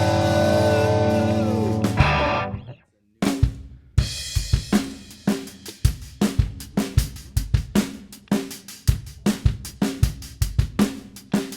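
A rock band's final chord rings out and stops about two seconds in. After a moment of silence, a drum kit starts a steady beat on kick, snare and hi-hat: the drum intro to the next song.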